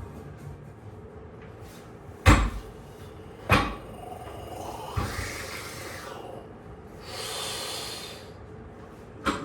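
Two heavy thuds about a second apart, then a lighter knock, a short hiss and a click.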